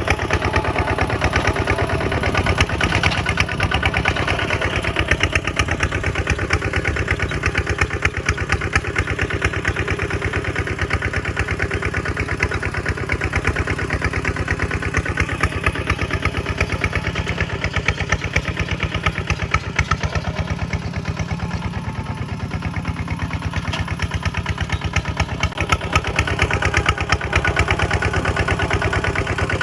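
Kubota tractor's diesel engine running steadily, a fast, even beat of firing pulses.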